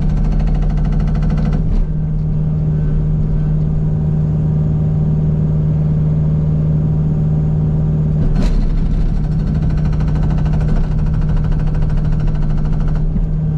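Kubota U55 mini excavator's diesel engine running steadily under hydraulic load. Two brief sharp knocks sound over it, about two seconds in and again near the middle.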